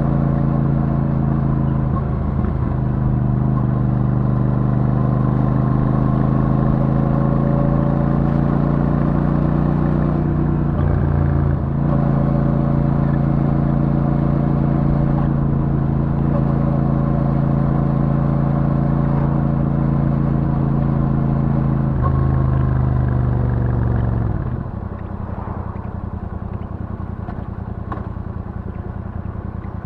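Royal Enfield Super Meteor 650's parallel-twin engine through its stock exhaust, running at steady cruising revs with two brief dips in revs, about two and eleven seconds in. About twenty-four seconds in the revs fall away sharply and the engine settles to a lower, quieter running as the bike slows.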